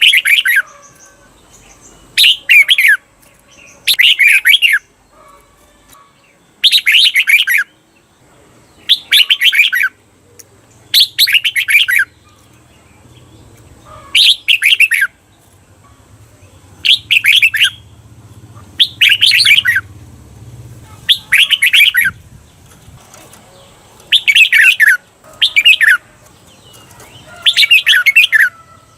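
Red-whiskered bulbul singing loud, short warbled phrases, one about every two seconds. This is the doubled 'เบิ้ล' song that keepers play to train caged bulbuls.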